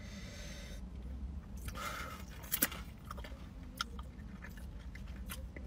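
A person quietly chewing a mouthful of fufu and egusi soup: soft wet mouth smacks and small clicks scattered through, over a faint steady low rumble.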